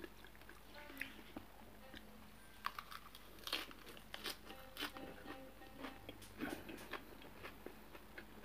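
A person biting into and chewing a crisp lettuce-leaf wrap, with faint, irregular crunches of the leaf.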